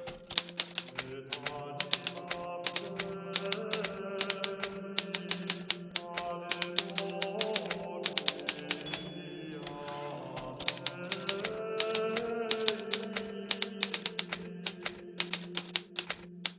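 Hermes Baby portable typewriter being typed on, its keys striking in quick, irregular runs of clicks.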